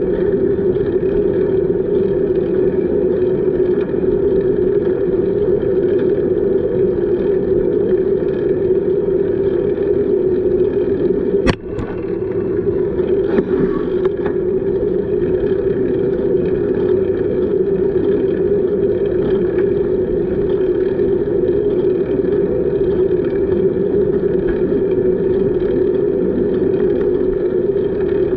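Steady running noise of a bicycle ride, with tyres rolling and air rushing past the microphone. A single sharp click comes about eleven and a half seconds in.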